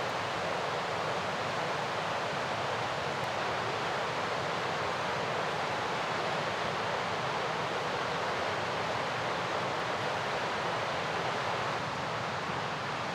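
Mountain river rushing: a steady, even wash of flowing water, dipping slightly near the end.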